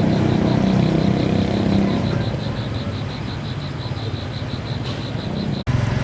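A vehicle engine running steadily, with an even high-pitched pulsing of about five pulses a second over it; the sound cuts out abruptly for an instant near the end, then resumes.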